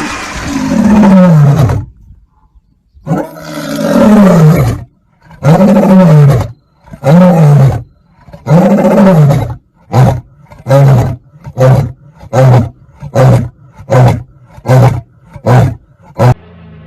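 A big cat roaring: about five long roars, each falling in pitch, then about nine short grunting roars a little under a second apart. The roaring stops just before the end.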